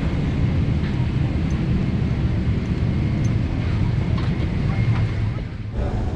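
Steady low rumble of aircraft noise during boarding, with a few faint clicks, dipping briefly near the end.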